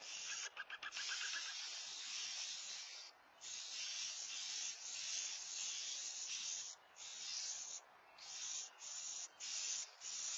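Faint, steady outdoor background hiss, broken several times by short silences where the clips are cut together. A brief run of high, pitched peeps sounds about half a second in.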